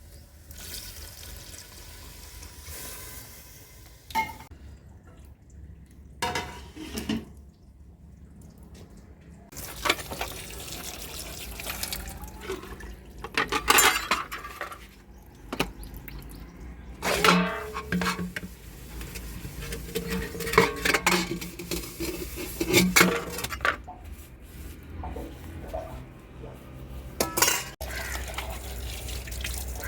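Metal pots, dishes and utensils clattering and clinking in a string of separate knocks, with some water splashing.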